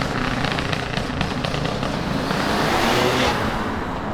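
A car's engine and exhaust running as it drives past, growing louder to a peak a little after three seconds and then easing off.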